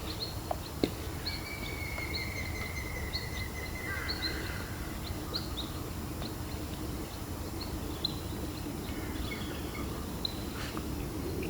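Small birds chirping in short, repeated high calls, with one longer thin whistled note from about a second in, over a steady background hiss of rain.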